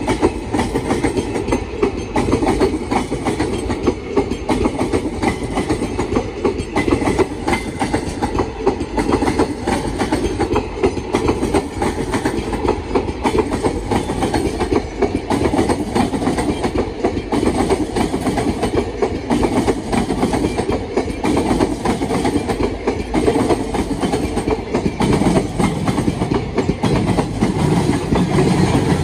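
Freight train of ICF parcel vans passing close by: steady rumble with a continuous clickety-clack of wheels over rail joints.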